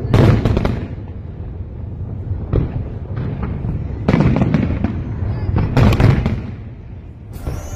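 Aerial fireworks going off in a series of sudden booms and crackles over a steady low rumble, the loudest bursts about four and six seconds in. Music comes in just before the end.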